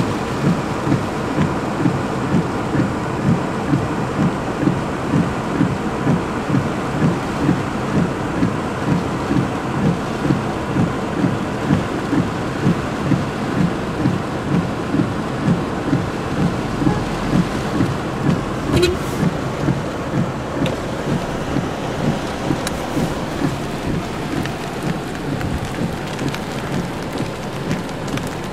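Heavy rain pouring, with a regular low beat about twice a second over it that eases slightly near the end.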